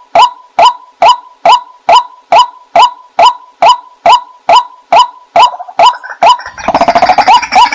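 White-breasted waterhen calling, a steady run of sharp 'kwak' notes a little over two a second. About two-thirds through, the single calls give way to a dense chatter of many overlapping calls, as in a waterhen chorus.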